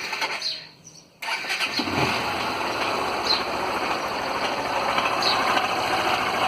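Honda CG 160 Fan's single-cylinder air-cooled engine starting about a second in and then running steadily. It carries a noise from the cylinder head that the owner is sure is not normal, though several workshops have called it normal.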